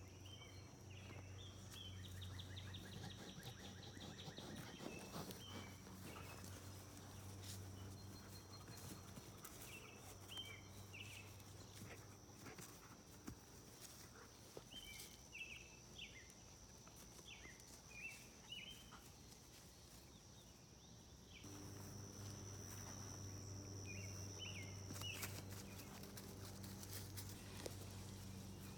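Quiet rural outdoor ambience: scattered short bird chirps and a steady high insect drone over a low, distant mechanical hum. The hum fades about a third of the way in and comes back stronger near three quarters through.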